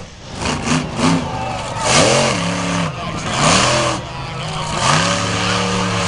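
Monster truck engine revving in repeated blips, its pitch rising and falling several times, then held at a steady high rev from about five seconds in.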